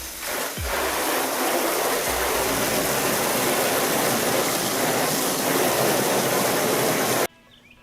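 Loud, steady rushing noise that cuts off suddenly near the end, after which faint bird chirps can be heard.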